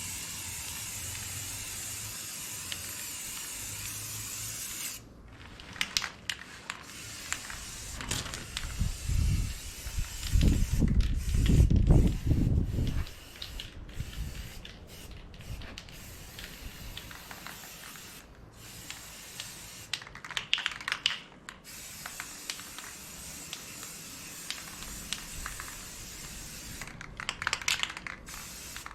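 Aerosol spray paint can hissing steadily for about five seconds, then stopping, with two shorter sprays later on. Scattered clicks and knocks fall between the sprays, and a loud low rumble comes about ten seconds in.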